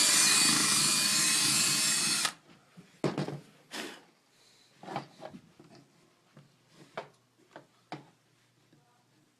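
Power drill running as it bores out a screw hole in a helmet shell to widen it, then stopping abruptly a little over two seconds in. A handful of light knocks and clicks follow.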